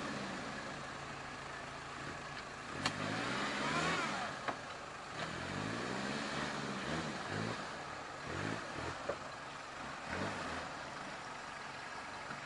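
An off-road 4x4 engine revving up and falling back several times in quick swells, as a truck works through mud. A few sharp knocks come between the revs.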